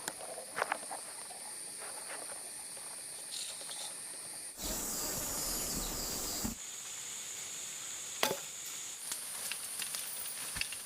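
A steady high-pitched insect drone, with scattered small clicks and snaps. About halfway through, a louder rush of noise lasts about two seconds, then stops abruptly.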